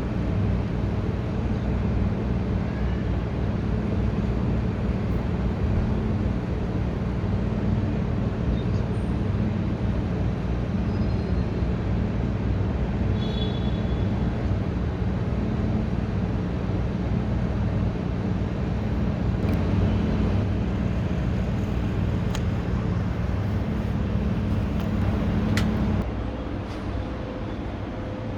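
A steady low mechanical hum, like an engine or motor running, that drops in level near the end.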